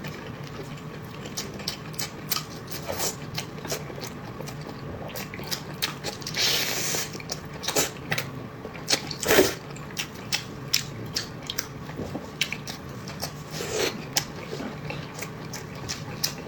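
Close-miked eating sounds: chewing with many quick, irregular wet mouth clicks and smacks. A few louder, longer wet sounds come about six, nine and fourteen seconds in.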